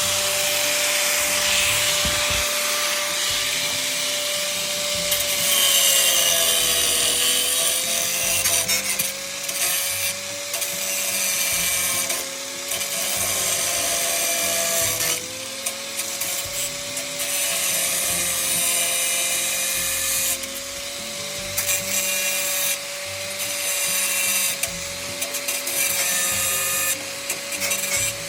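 A power tool runs continuously. Its motor whine holds steady and dips briefly twice as it comes under load, and a rasping cutting noise starts and stops several times over it.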